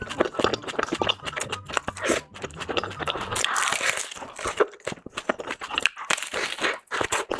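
Close-up crunching and chewing of panipuri: crisp hollow puris cracking between the teeth in quick irregular crackles, then being chewed.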